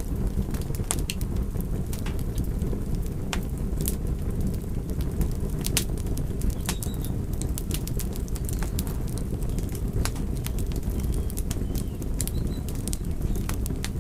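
Fire burning with a steady low rumble and scattered, irregular crackles and pops.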